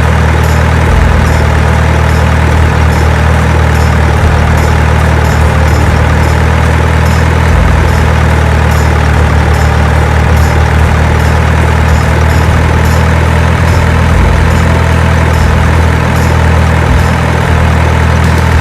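Steady, loud low truck-engine drone like a heavy diesel idling, the engine sound that goes with a miniature remote-control truck, with faint regular ticking on top.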